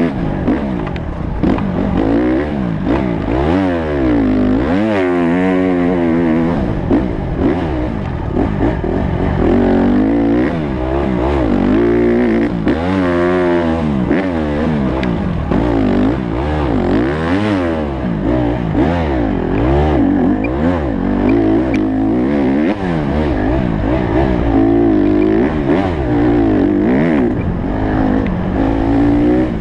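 Honda CRF150 dirt bike's single-cylinder four-stroke engine revving hard and continuously, its pitch climbing and dropping again and again as the rider opens and closes the throttle and shifts.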